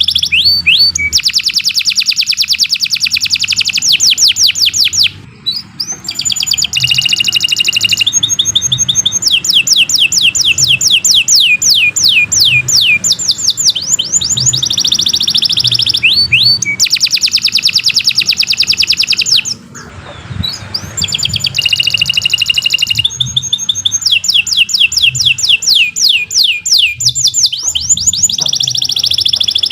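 Domestic canary singing a long, loud song, phrase after phrase of rapid trills and repeated notes, each phrase a different tour. The song breaks briefly about five seconds in and again around twenty seconds.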